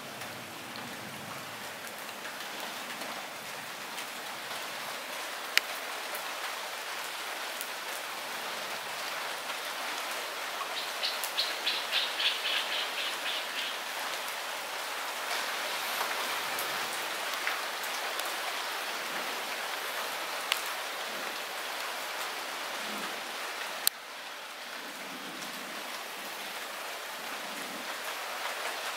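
Light rain falling steadily, with a few sharp, close drip taps. A short, rapid, high trill sounds about a third of the way through.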